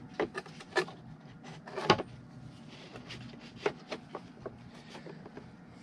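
Irregular small clicks, taps and light knocks of parts being handled on a plastic HVAC heater box, with one louder knock about two seconds in.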